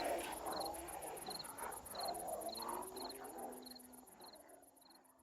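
Crickets chirping: a fast, high, pulsing trill with a slower chirp about every two-thirds of a second, over a faint hum. The sound fades out toward the end.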